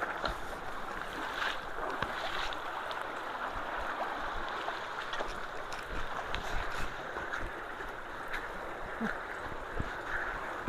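Swollen creek water rushing steadily at a culvert, an even hiss of running water with a few faint ticks.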